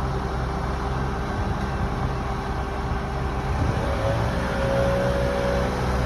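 An engine running steadily, with a faint whine that rises slightly about four seconds in.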